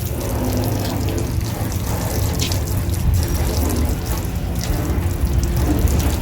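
Water running and spraying, as from a hose washing a car, over a steady low hum.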